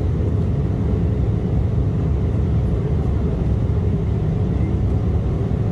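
Steady low rumble of an Embraer E175 jet airliner heard from inside the passenger cabin: engine and airframe noise, even in level throughout.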